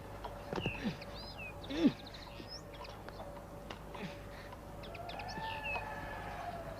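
Birds chirping and calling in short, scattered calls, some sliding down in pitch; a sharper call about two seconds in is the loudest. A faint steady hum runs underneath.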